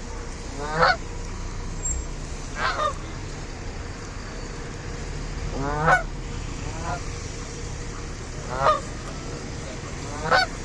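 Canada goose honking: five loud, short honks about two seconds apart, with a fainter honk after the third.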